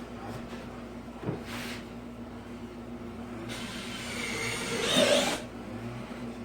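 Cordless power drill driving a screw into wood: a brief blip about a second and a half in, then a run of about two seconds, rising in pitch, near the end.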